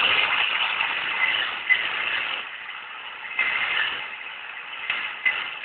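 A power wire brush scrubbing at metal on a boat motor part, with a steady hiss for the first two seconds or so, then two short bursts as it touches down again about three and a half and five seconds in.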